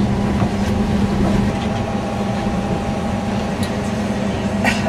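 Interior running noise of a TfL Rail Class 345 electric train on the move: a steady low rumble with an even hum, and a short click near the end.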